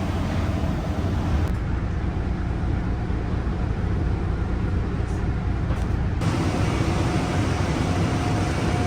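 Steady low engine and road rumble heard from inside a moving city bus. The sound's character shifts abruptly twice, about a second and a half in and again near six seconds.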